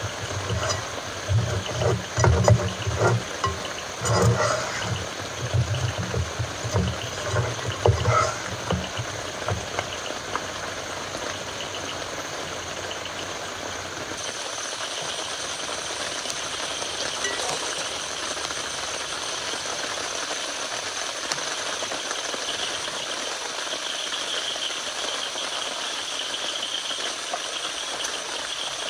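Steady rain hiss, with irregular low thuds and a few clicks close by over the first ten seconds. From about fourteen seconds on only the steady rain remains, now with a faint high hiss over it.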